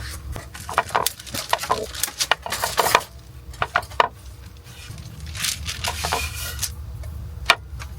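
Dishes and utensils clinking and knocking during breakfast preparation: many short irregular clicks and clacks over a low steady rumble.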